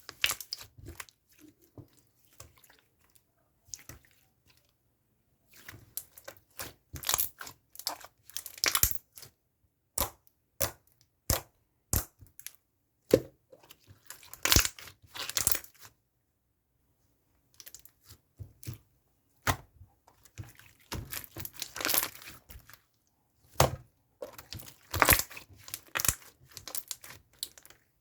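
Slime being pressed and squeezed by hands, giving off irregular bursts of sharp crackles and pops with short quiet pauses between handlings.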